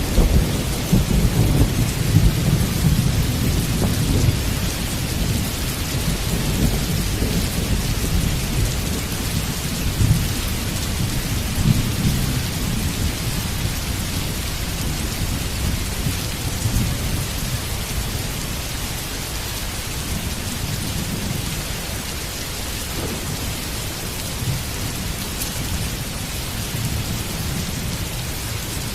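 Heavy rain falling steadily, with a low rumble of thunder that is strongest in the first dozen seconds and then dies down.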